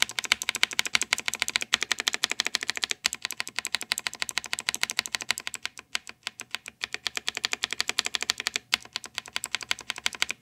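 Mechanical keyboard with blue switches, some lubed with Vaseline and hand cream to damp their click, being pressed rapidly over and over, several keystrokes a second. There are a few short breaks.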